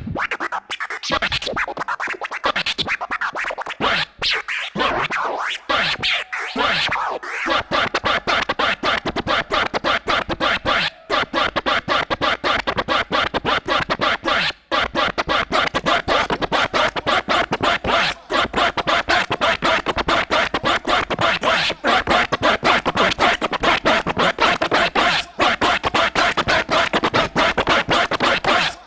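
Turntable scratching on vinyl records: sweeping back-and-forth pitch glides in the first several seconds, then a long run of fast, tightly chopped crossfader cuts.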